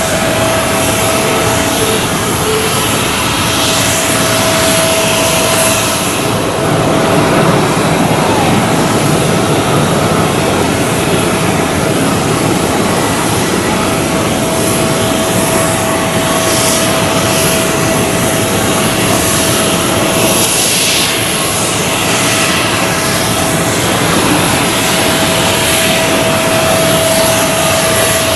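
Jet airliner engines running loud and steady close by on the runway, with a change to another aircraft about six seconds in. Most of it is an Airbus A321neo's CFM LEAP-1A turbofans, with a thin steady tone heard above the engine noise.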